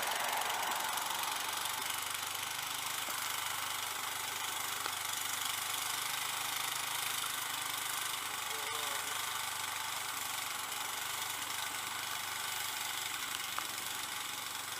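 Small snow blower engine running steadily.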